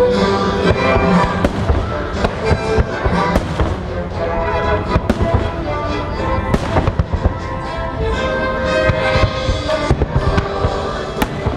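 Fireworks going off in rapid succession, many sharp bangs and crackles, over the show's music soundtrack playing loudly throughout.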